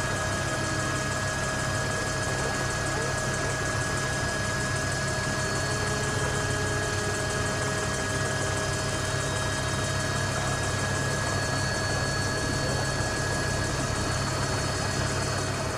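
Formula One cars' engines running at a steady idle: a constant low hum with steady tones held throughout, no revving.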